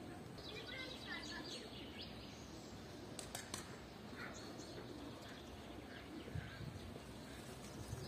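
Small birds chirping faintly: a quick run of short high chirps in the first second or two, then scattered single chirps, over a low steady outdoor background.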